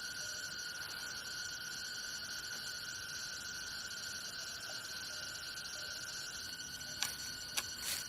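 Steady, high-pitched insect drone, a cicada-like chorus of several stacked tones. Three sharp clicks or knocks come near the end.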